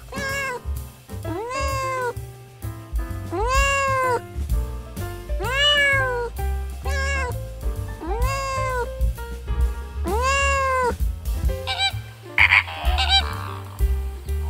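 Cat meowing about six times, each meow rising and then falling in pitch, over background music. Near the end a different, harsher animal call takes over.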